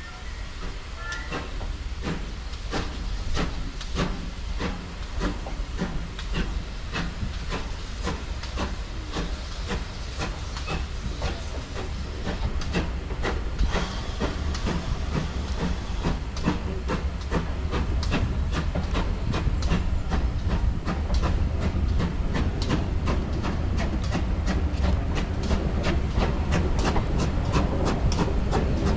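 A steam train on the move: steam hiss over a regular run of sharp beats that come faster and grow louder as it goes.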